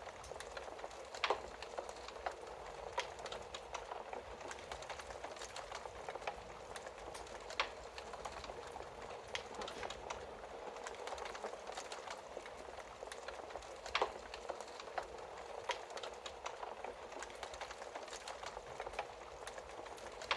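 Wood fire crackling in a fireplace: a steady hiss with frequent small snaps and a few sharper pops, the loudest about a second in, near the middle and about 14 seconds in.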